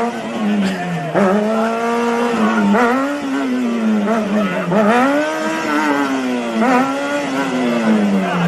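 Motorcycle engine revved repeatedly, its pitch rising and falling every second or so.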